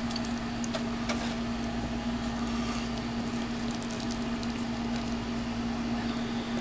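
A steady low electrical hum with a few faint clicks of a plastic action figure and its parts being handled, mostly about a second in.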